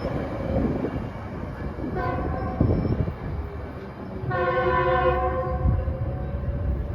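Metrolink commuter train sounding its multi-tone horn: a short blast about two seconds in, then a louder blast lasting over a second, over the steady rumble of the passing train.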